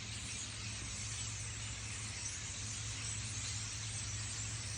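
Dense, steady chorus of many birds calling at once from a huge migrating flock, a high-pitched chattering wash with a steady low hum beneath it.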